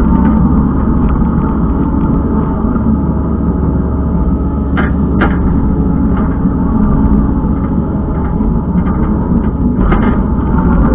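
Kubota skid steer's diesel engine running steadily under working load, with a couple of short knocks about five seconds in and another near the end.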